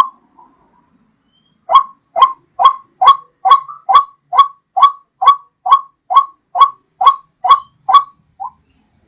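White-breasted waterhen (ruak-ruak) giving its repeated lure call: a fast train of short, loud, upward-swept notes, a little over two a second. The notes begin about two seconds in and break off near the end, the last one weaker.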